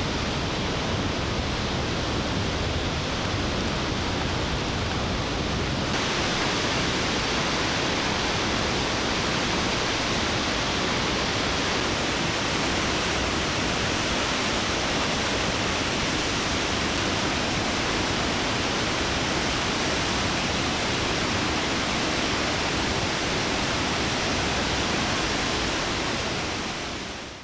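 Large plunging waterfall, a steady, constant rush of falling water. The hiss grows brighter about six seconds in, and the sound fades out at the very end.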